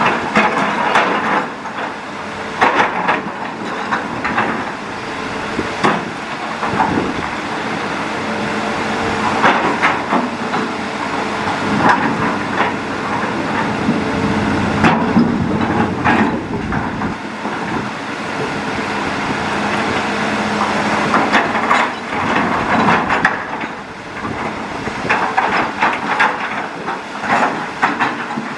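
Hitachi Zaxis hydraulic excavator running steadily under load while digging, with irregular clanks and knocks of the bucket and hardware throughout.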